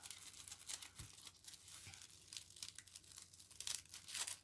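Faint rustling and crinkling of paper envelopes and their packaging being handled, in short scattered rustles that grow a little louder near the end.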